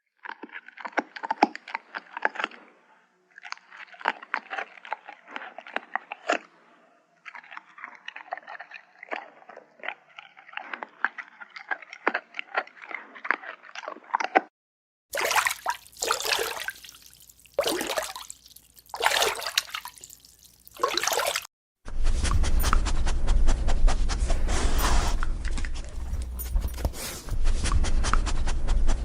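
A dog's wet mouth sounds, a fast irregular run of small clicks, giving way about halfway through to half a dozen loud breathy puffs. In the last third comes steady close heavy panting.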